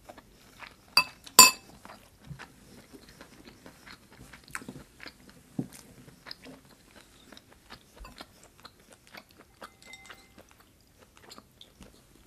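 A person chewing a mouthful of braised short rib close to the microphone: many small, irregular mouth clicks and smacks, with two sharper clicks about a second in.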